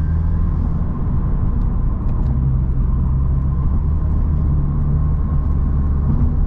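2016 Lexus IS 200t's 2.0-litre turbocharged four-cylinder running steadily through an axle-back muffler-delete exhaust, a constant low rumble at a steady speed.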